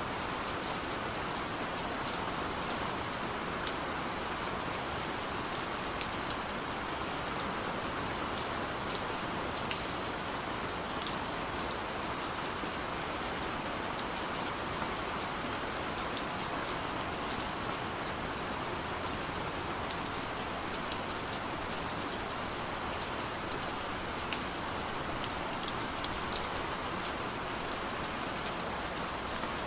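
Steady gentle rain falling, an even hiss with scattered small drop ticks throughout.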